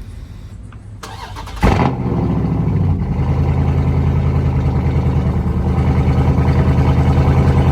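A car engine starts with a sudden loud burst about one and a half seconds in, then settles into a steady idle with an even, pulsing beat.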